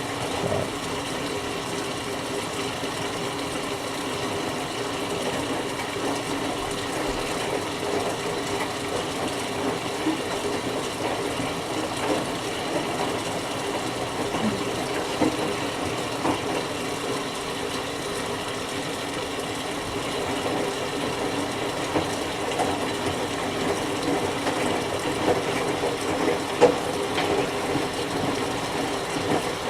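Whirlpool Duet Sport front-load washer filling for a rinse: water running in with a steady hum, with a few faint knocks.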